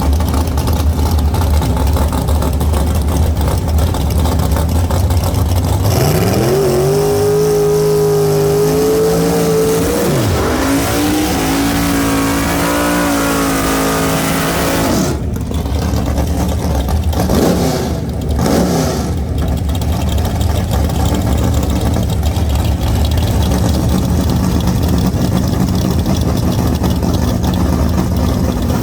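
Car engine idling, then revving: about six seconds in the pitch climbs and holds high for several seconds, dips briefly, climbs and holds again, then falls back to idle. A little later come two short throttle blips.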